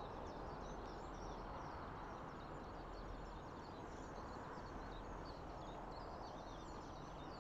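Lakeside ambience: a steady hiss of background noise with many faint, short, high chirps from small birds scattered throughout.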